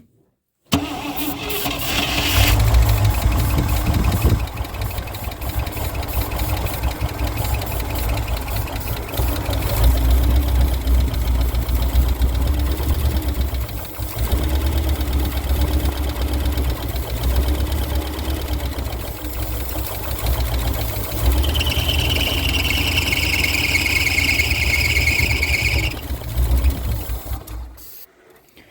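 1967 International 1200 pickup's engine cold-starting on a spray of ether: it catches about a second in and runs rough and uneven, dipping and picking up again several times, then dies away near the end. A high whine joins in for a few seconds near the end.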